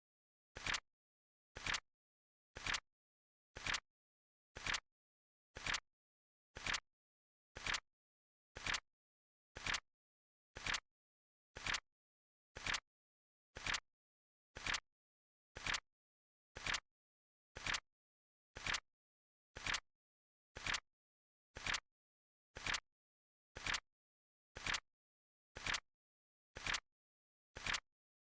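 Flip clock timer sound effect: a short, sharp click once every second, evenly spaced, with dead silence between the clicks.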